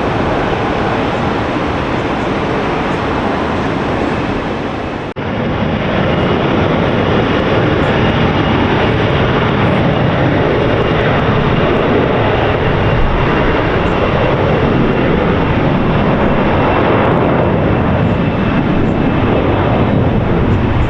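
Loud, steady jet airliner engine noise. It drops out briefly about five seconds in, then resumes at the same level.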